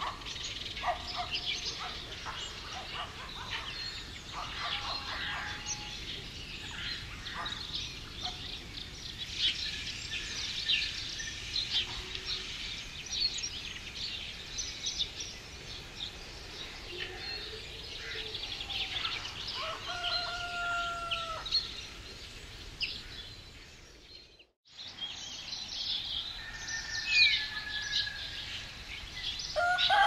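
Birds chirping and calling, with many short high notes overlapping throughout and a few longer, steadier calls about two-thirds of the way in and again near the end. The sound drops out for a moment about three-quarters through, then the birdsong goes on.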